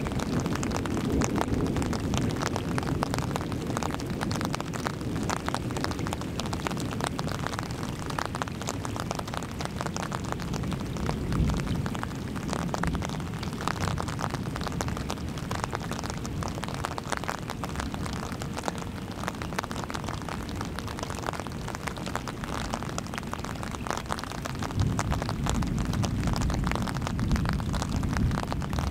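Rain pattering steadily on an umbrella held over the camera, a dense patter of drops. Underneath runs a low rumble that grows stronger near the end.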